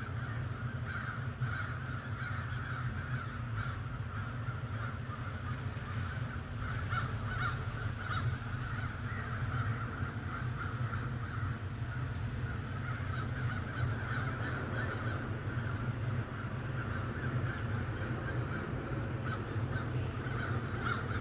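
Birds calling over and over, with short high chirps joining in from about a third of the way in, over a steady low rumble.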